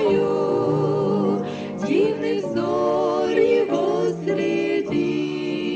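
Voices singing a hymn with accompaniment, holding long notes with vibrato over steady low notes.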